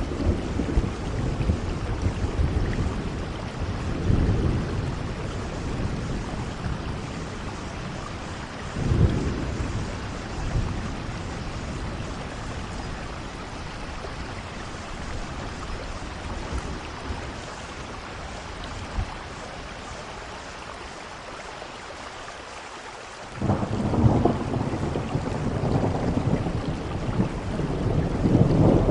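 Steady rain with rolls of low thunder: rumbles around four and nine seconds in, then a louder one that starts abruptly about twenty-three seconds in and builds toward the end.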